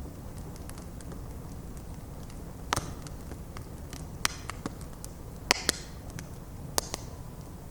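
Bonfire of stacked logs burning, with a steady low rush of flames and sharp wood crackles and pops scattered through it. The loudest is a quick pair of pops a little past the middle.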